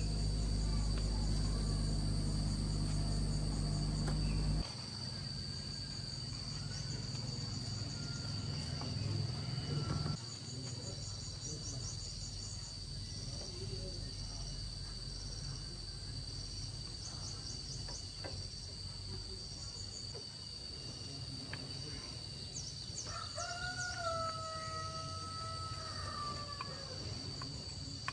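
Insects, crickets, chirping in a steady high drone throughout, over a low hum that drops off about five seconds in and fades again around ten seconds. Near the end there is one long, drawn-out pitched call.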